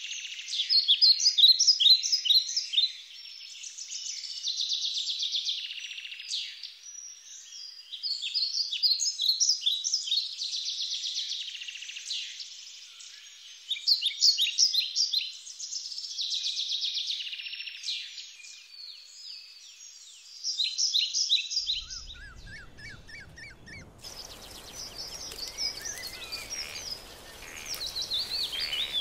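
Birds singing: phrases of quick chirps and trills repeating every few seconds. About three-quarters of the way through, this gives way to a hissier outdoor ambience with fainter bird calls.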